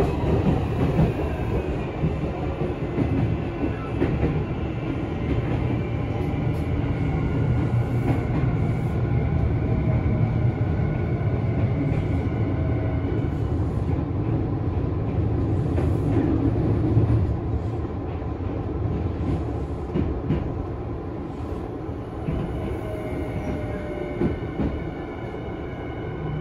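Tokyu 5000 series electric train heard from inside the car while running: wheels on the rails, with the electric drive's whine changing pitch, falling at the start. The running noise eases down in the last third as the train slows into a station.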